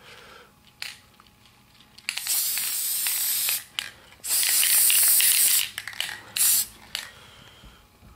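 Spray paint hissing from an aerosol can in two bursts of about a second and a half each, then a short third spurt, with a few light knocks between them.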